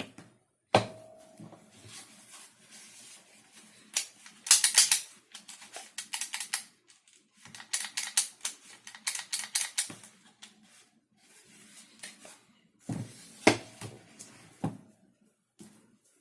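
Hard 3D-printed plastic parts of an airsoft rifle kit being handled and fitted together by hand. A sharp knock comes about a second in, then two long runs of rapid clicking and rattling, and more knocks near the end.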